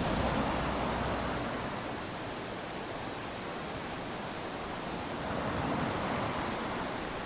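Small waves lapping onto a sandy shore: a continuous wash of surf that swells twice as waves come in, the second after about five seconds.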